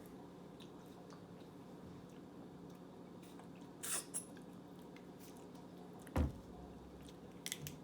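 Faint eating and handling sounds at a table over a steady low hum. There is a short hiss about four seconds in, a dull thump about six seconds in, and a few light clicks near the end.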